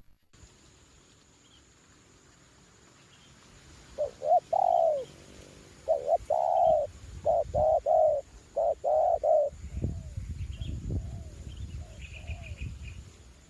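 Spotted dove cooing: several phrases of short and drawn-out coos between about 4 and 9.5 seconds in, then a few fainter notes. The bird is a decoy dove calling in strong wind, and wind rumbles on the microphone through the later part.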